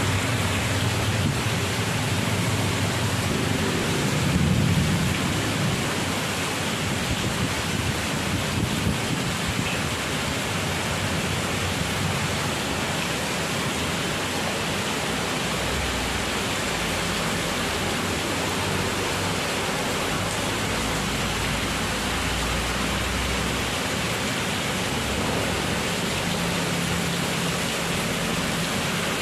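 Heavy rain in a windy storm, a loud steady hiss of rain with no break, with a louder low rumble about four to five seconds in.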